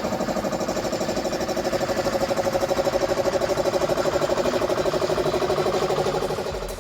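Chevy 6.5 L turbo-diesel V8 running steadily at idle with an even, rapid pulsing, fading out near the end.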